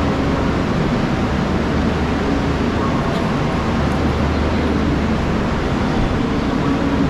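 Railway platform ambience: a steady low hum from the stationary double-decker AC train, with the murmur of people on the platform.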